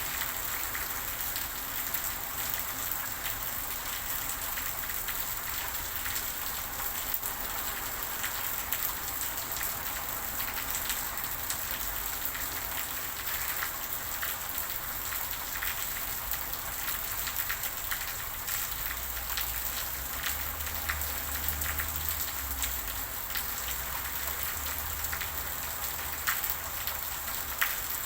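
Steady rain falling, a constant hiss full of small pattering drop hits. A faint low rumble runs under it in the second half.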